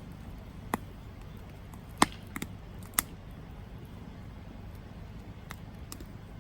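Wood campfire burning: a steady low rush of flame with sharp crackling pops. The pops cluster in the first three seconds, the loudest about two seconds in, with a couple of fainter ticks later.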